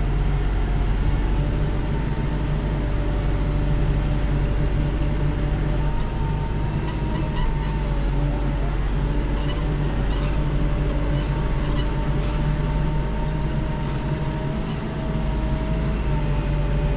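Kubota L3940 compact tractor's diesel engine running steadily, with a thin steady whine over the low drone, heard from inside the tractor's cab.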